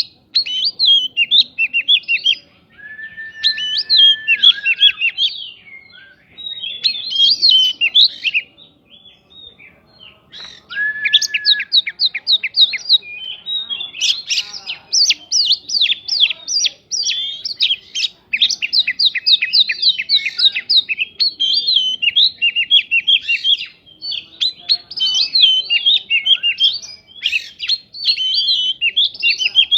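Oriental magpie-robin (kacer) singing a fast, varied song of rapid chattering notes, filled with imitated prinia (prinjak) calls. It sings in bursts, with a couple of short steady whistles and a brief pause about nine seconds in.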